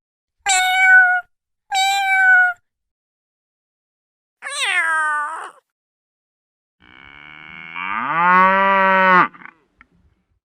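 A cat meowing, two short meows followed by a longer meow that falls in pitch, then a cow mooing in one long low call that rises and swells.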